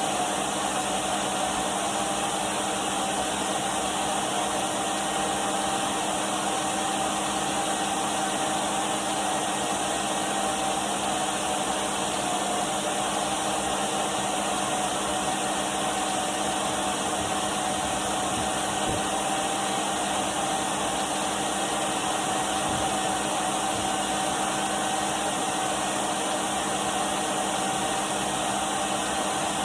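Numatic Henry canister vacuum cleaner running steadily: an even rushing hiss of air with a constant whine and a low hum beneath.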